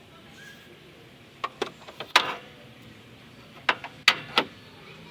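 Sharp knocks and clanks: three about a second and a half in, the last with a short ring, and three more near the end, like tools or parts striking or being set down during work on the car.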